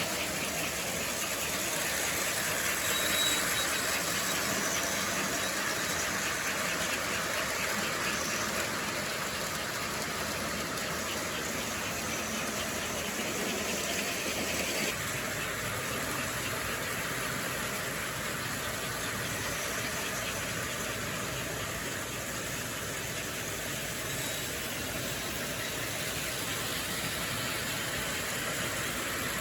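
Model train running on its track, a steady mechanical hum and rumble of motor and wheels that changes character slightly about halfway through.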